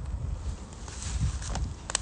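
Wood fire crackling in a camp fire stove: a few sharp pops over a low rumble, with a brief hiss about a second in.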